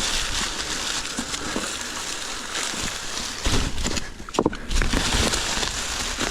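Dry leaves rustling and crunching on a rocky trail, with low buffeting on the microphone a few times past the middle.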